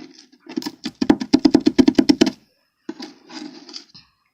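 Fast tapping and scraping of spatulas chopping Oreo cookies into crumbs on the plate of a toy rolled-ice-cream maker, with a quick run of about eight taps a second in the middle.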